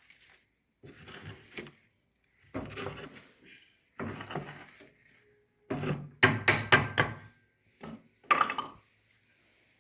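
Wood and metal knocking and clattering in a wood-burning fireplace as burnt-out logs are moved about, in several separate bursts, with the loudest run of quick knocks about six to seven seconds in.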